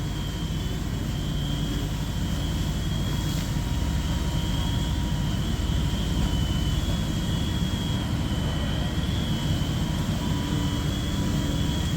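Fire apparatus diesel engines running steadily, a dense low rumble with a wavering high whine over it, as the pumpers supply the hose lines.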